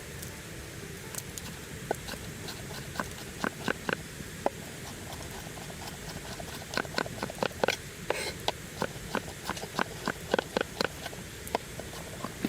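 A series of sharp taps and knocks, a few at first, then a quicker run of about three a second past the middle, over a steady low background noise.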